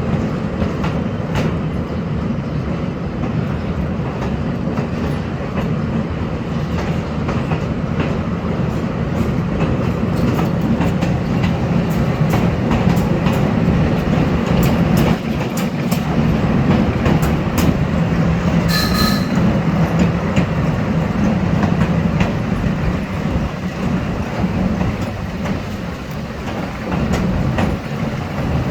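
Amusement-park train ride heard from aboard: a steady rumble of the running train with wheels clicking over the rail joints. A brief high-pitched squeal sounds about two-thirds of the way through.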